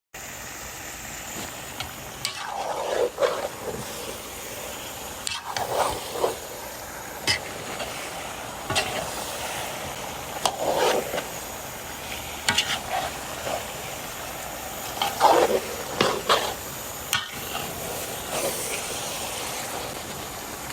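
Curry chicken sizzling in a pot with a steady hiss, stirred now and then, with short scrapes and clatters of a utensil against the pot several times.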